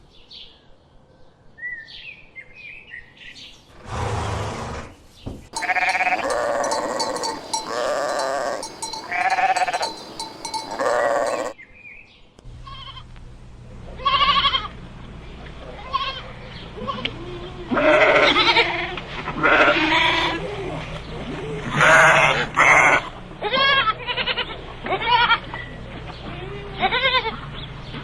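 Bird chirps briefly at first, then farm animals bleating over and over, with quavering, wavering calls; about twelve seconds in the scene changes and a steady low hum runs under many overlapping bleats.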